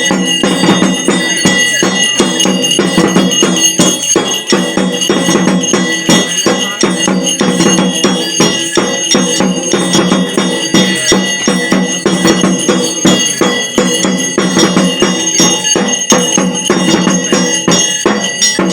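Ritual bells ringing continuously amid devotional music, with fast, even rhythmic strikes all the way through.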